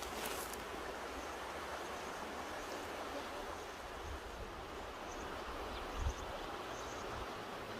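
Mountain river rushing steadily, an even wash of water noise, with a low wind buffet on the microphone about six seconds in.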